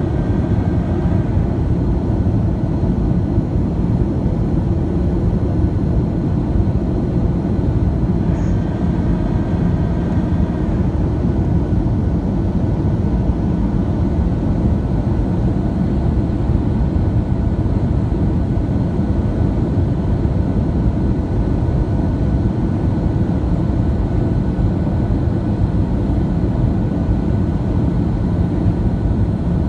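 Steady cabin noise of a Boeing 737-700 in flight, heard from inside the cabin: an even, low-pitched rumble of engines and airflow that holds constant throughout.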